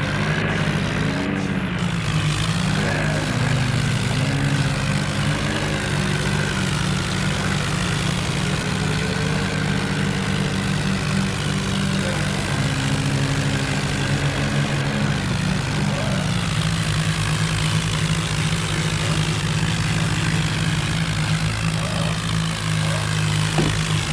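Tractor diesel engine running steadily, with its pitch shifting slightly now and then.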